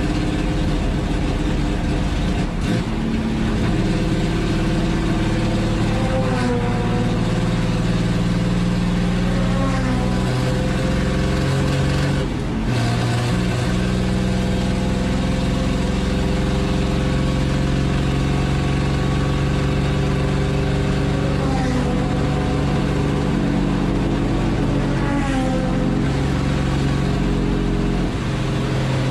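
Chevrolet Opala race car's 250 cu in (4.1-litre) straight-six running hard on track, heard from inside the stripped cabin. Its pitch holds steady for stretches and then steps and sweeps up and down several times as the driver changes gear and lifts for corners, with a brief drop in level about twelve seconds in.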